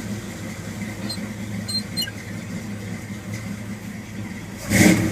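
1973 Ford Bronco's carbureted 5.0 L V8 idling steadily in neutral just after start-up, then revved briefly near the end.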